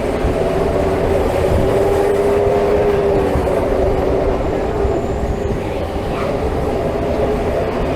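Theme-park ride cars running along their track: a steady rumble under a steady whine.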